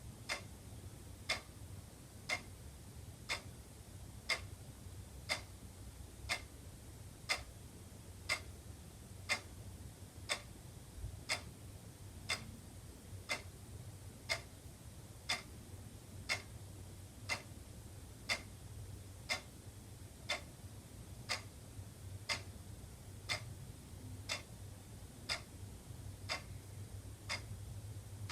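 Wall clock ticking steadily, about one sharp tick a second.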